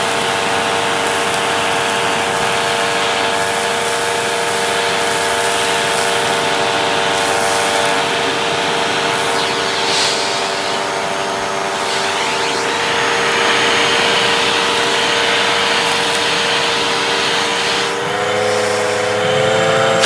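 Hoover vacuum cleaner running, a steady motor whine over rushing air. About 18 seconds in, the pitch rises and wavers as the load on the motor changes.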